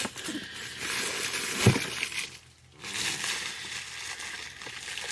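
Packaging crinkling and rustling as items are handled, with one light knock about one and a half seconds in.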